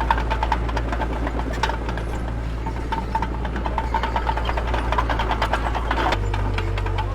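Mini bulldozer's diesel engine running steadily under rapid metallic clanking and squeaking; the engine note changes about six seconds in.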